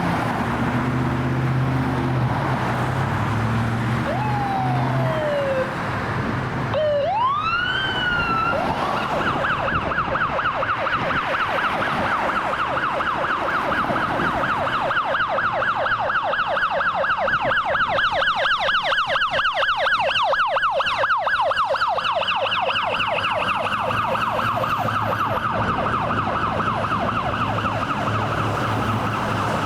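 Fire apparatus siren: a rising wail about seven seconds in, then a fast yelp that carries on steadily, with the truck's engine rumbling beneath in the first few seconds.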